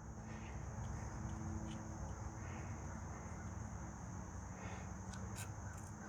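Steady high-pitched chirring of insects in the background, with a few faint clicks near the end.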